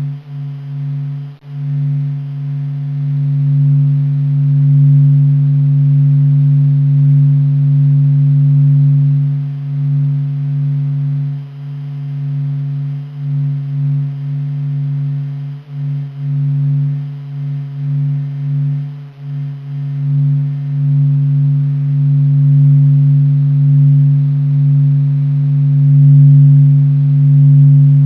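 Sonified vibrations of the Sun: a deep, steady drone with a second tone about an octave above it, its loudness swelling and dipping unevenly.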